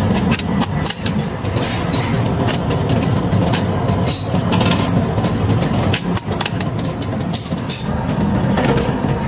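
Heavy workshop machinery running with a steady low rumble and frequent irregular metallic knocks and clanks.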